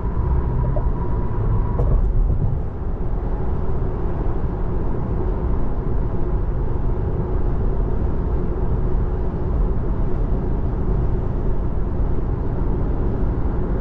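Road and tyre noise inside the cabin of a 2024 Tesla Model 3 Long Range at freeway speed: a steady low rumble with no engine note.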